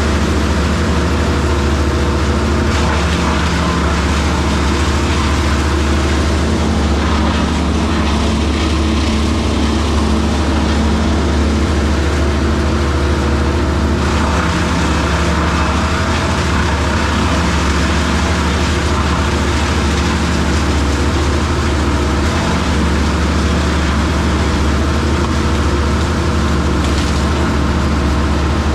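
Bobcat E60 compact excavator's diesel engine running at a steady speed.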